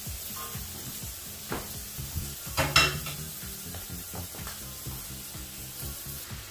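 Pork, onion and tomato sizzling steadily in a wok over a gas flame, with a sharp clatter of the wooden spatula being laid in the wok a little before halfway through.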